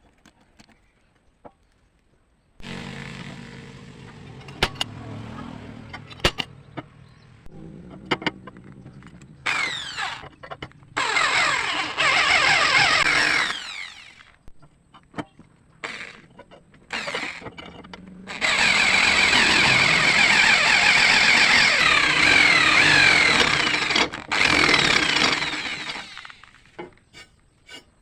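A power tool motor switches on about two and a half seconds in and runs steadily. It is twice put under load in long, loud working passes, then winds down near the end.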